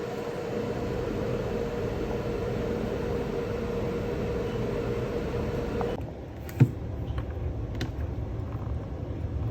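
A machine running with a steady hum and a faint whine, cutting off abruptly about six seconds in; then one sharp click and a few light ticks.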